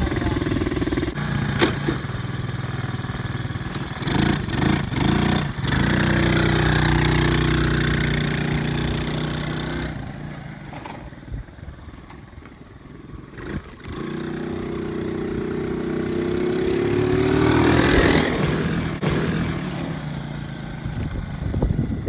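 Dirt bike engine revving as it is ridden. It fades away midway, then climbs in pitch and loudness again and eases off near the end. A few sharp knocks come in the first half.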